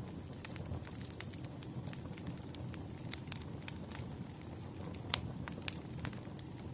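Wood fire burning: a steady low rumble of flames with frequent small crackles and snaps from the burning logs, and one sharper pop about five seconds in.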